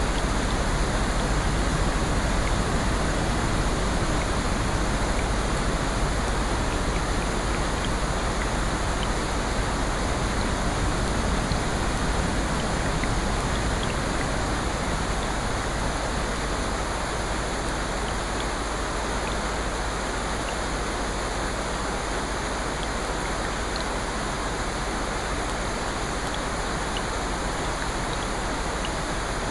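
Steady rain: a dense, even hiss with a few faint scattered drop ticks, easing off slightly about halfway through.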